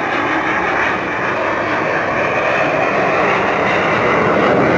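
Jet aircraft flying past: a loud, steady rush of engine noise that swells slightly toward the end.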